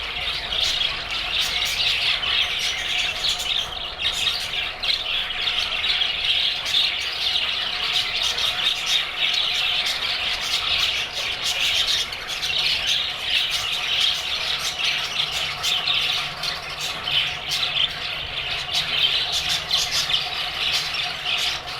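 A flock of budgerigars chattering and squawking without a break: a dense, busy mix of high chirps and harsh calls.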